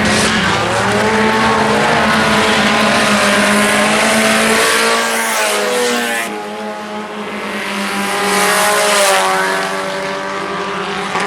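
A pack of IMCA Sport Compact race cars running hard, their four-cylinder engines rising and falling in pitch as they pass. The sound eases off about six seconds in and swells again shortly after.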